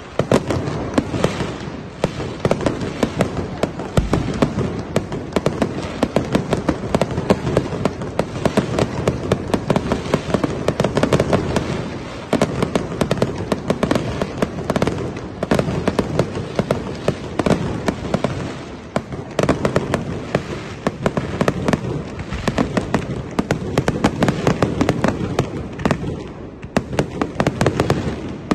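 A fireworks display going off: a dense, unbroken crackle of many rapid pops and bangs over a low rumble of bursts.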